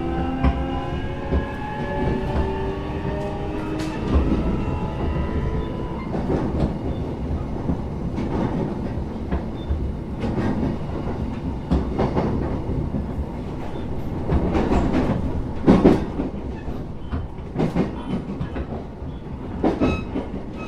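Interior of an electric train: the traction motors give a rising, multi-toned whine as the train gathers speed, fading out about four seconds in. Under a steady low rumble, the wheels then clack and knock over rail joints at irregular intervals.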